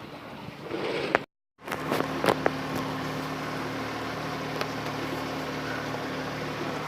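An engine running steadily with an even hum, starting after an abrupt cut about a second and a half in, with a couple of sharp knocks just after.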